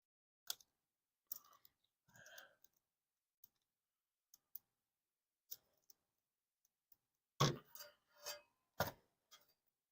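Tools and small hardware being handled: scattered sharp clicks and clinks, with a few louder knocks about seven to nine seconds in.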